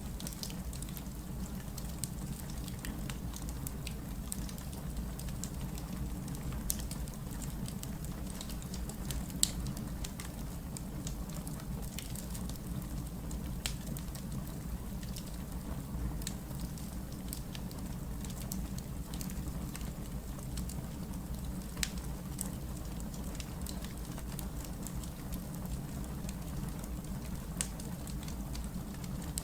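Wood fire burning, with a steady low rumble and scattered sharp crackles and pops.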